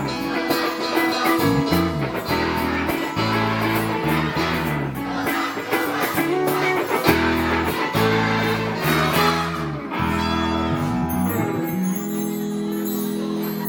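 Instrumental band music led by guitars over a moving bass line; near the end it settles into a held chord.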